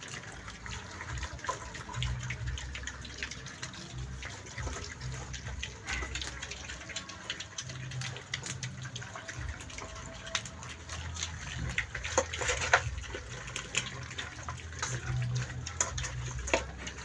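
Pigs grunting low, amid a steady watery, splashing noise with scattered clicks; a louder burst of noise comes about twelve seconds in.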